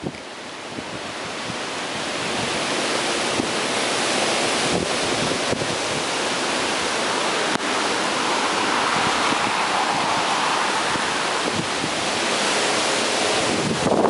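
Hurricane wind and heavy rain: a steady rushing noise that builds over the first couple of seconds, with wind buffeting the microphone.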